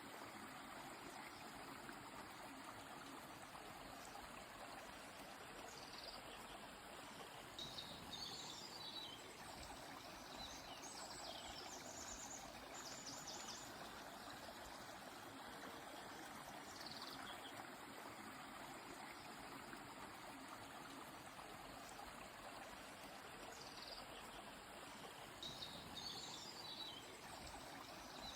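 A river flowing steadily, with short high bird calls chirping over it every few seconds, several in quick clusters.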